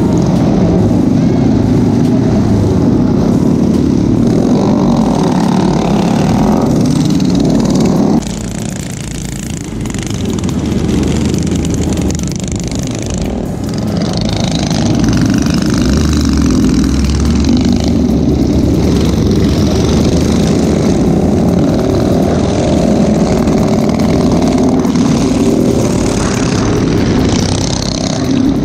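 Small motorbike engines running during a group ride, loud and steady, with the sound dropping suddenly about eight seconds in and building back up.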